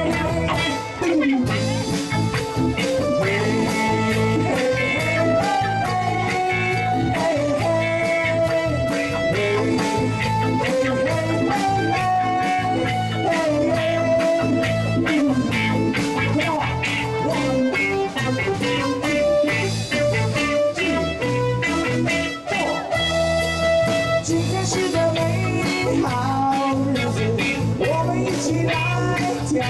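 Live band playing an instrumental passage of a cha-cha song: a sustained lead melody over bass and a steady drum beat.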